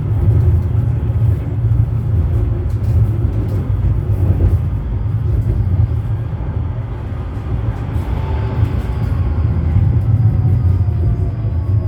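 Interior running noise of a 71-911EM "Lvyonok-M" low-floor tram: a steady low rumble from the wheels and track. From about eight seconds in, a thin whine falls in pitch as the tram slows.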